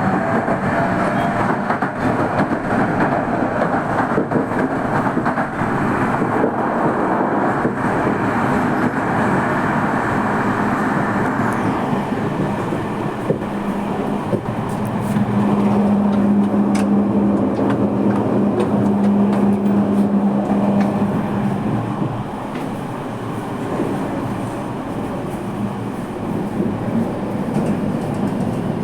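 Running noise inside a Toei Mita Line electric train car: the steady rumble of wheels on the rails. A steady hum comes in about halfway through and dies away several seconds later, and the noise grows slightly quieter near the end.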